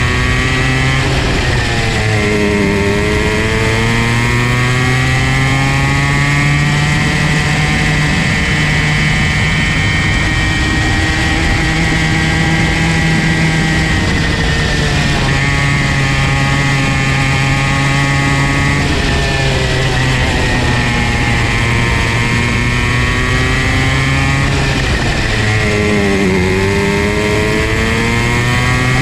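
Comer C50 50 cc two-stroke kart engine running hard and steadily loud. Its pitch drops sharply and climbs back as it comes off the throttle and accelerates again, most clearly about two seconds in, around twenty seconds and again near the end.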